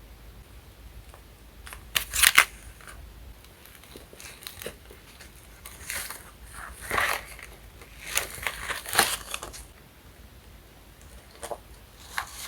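Paper and sticker material being handled close up: short bursts of crinkling and rustling, the loudest about two seconds in and a cluster between six and nine and a half seconds in.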